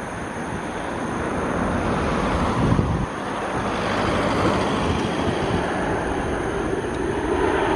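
Jet aircraft engines: a loud, steady rush that grows louder over the first few seconds and then holds.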